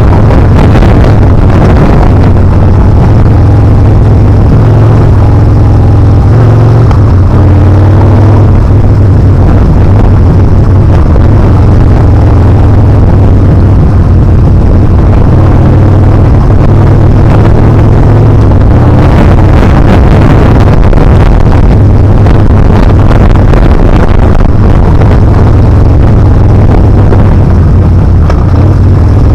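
Yamaha Bolt R-spec's air-cooled V-twin running under way, a loud low exhaust note that rises and falls a little with the throttle, mixed with wind noise on the microphone.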